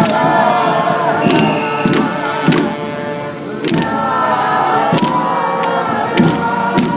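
A group of voices singing together in chorus over music, with sharp percussion strikes about once a second.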